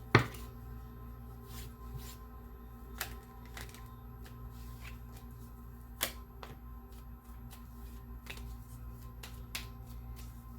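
A tarot deck being shuffled and handled, a string of light card clicks with a sharper knock just after the start and another about six seconds in.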